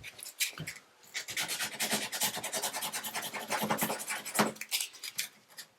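600-grit sandpaper being rubbed by hand over a chip in a bathtub's surface, in quick back-and-forth strokes that settle into a steady run about a second in, knocking down the chip's rough, jagged edges.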